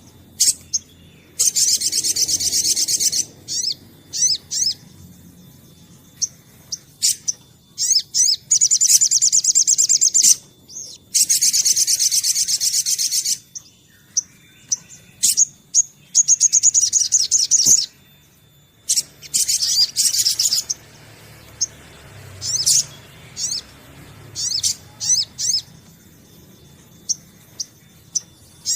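Sunbird (sogon) singing: fast, high twittering trills in bursts of one to two seconds, with short single chirps and brief pauses between them.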